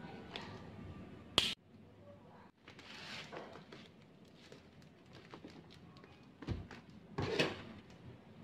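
A parcel wrapped in bubble wrap and plastic film being handled: a sharp knock about one and a half seconds in, the loudest sound, then rustling of the wrapping and a few soft thumps and taps.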